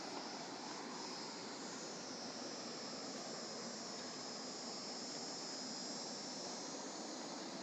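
Steady rushing of a fast mountain river: an even, unbroken noise.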